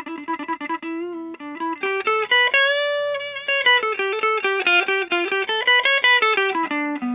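Electric guitar on its neck pickup played through a Vox Lil' Night Train 2-watt valve amp on a clean tone: a single-note lead melody, with one note held for about a second some two and a half seconds in.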